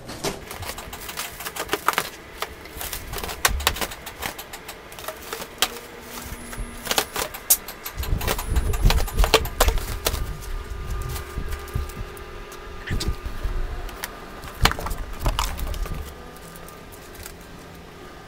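Clear plastic wrap crinkling and tearing as it is pulled off stacked perforated steel welding-table plates, with many sharp clicks and rattles of metal parts being handled. The crinkling is densest in the middle stretch.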